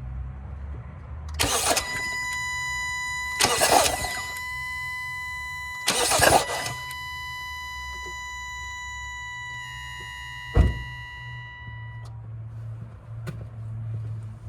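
A 2016 Hyundai Sonata's direct-injection engine cranked on the starter in three short bursts about two seconds apart, with cylinder 4's ignition coil and spark plug removed, to check that cylinder for flooding fuel. A steady high tone with overtones sounds between and after the cranks and fades out near twelve seconds in, and a sharp click comes about three quarters of the way through.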